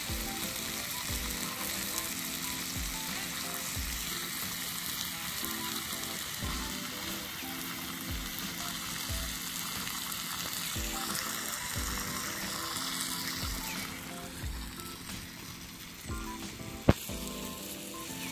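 Food frying and sizzling in a cast-iron skillet over a campfire, a steady hiss that fades about three-quarters of the way through. Soft music plays underneath, and there is a single sharp pop near the end.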